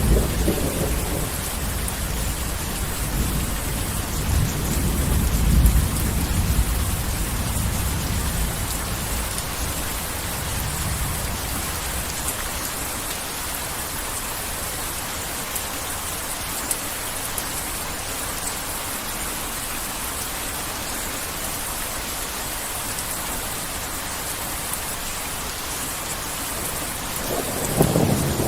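Heavy rain pouring steadily, with a rolling rumble of thunder in the first third that dies away. Another thunder rumble starts building near the end.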